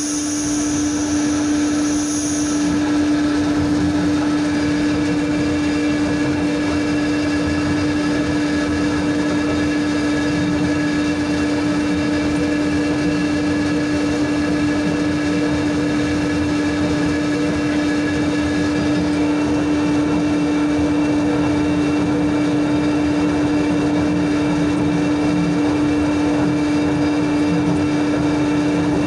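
Sawmill machinery running steadily, a strong hum held at one constant pitch. A high whine over it stops about two seconds in.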